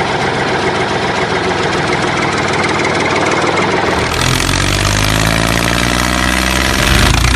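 Tractor engine running steadily, its note turning heavier and deeper about four seconds in.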